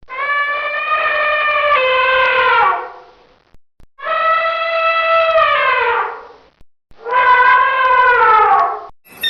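Three long, drawn-out animal calls in a row, each held on one pitch and then dropping at the end.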